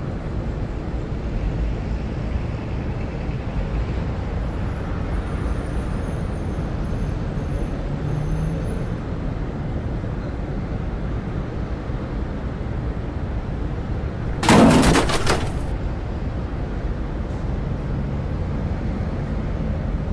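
Steady low rumble of background ambience, with one loud, rough crash of noise lasting about a second, roughly fifteen seconds in.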